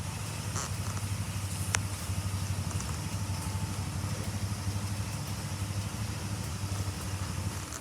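Harley-Davidson FXDL Dyna Low Rider's air-cooled 1580 cc V-twin idling steadily with a loping, pulsing beat.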